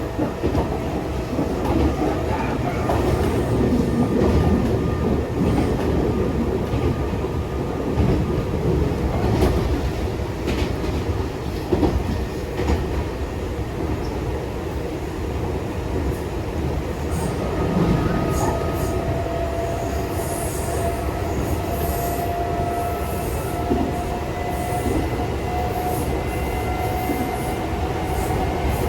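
Nankai 6000 series electric train running along the line, a steady rumble with wheel clicks over rail joints. In the second half a faint tone creeps slowly upward in pitch.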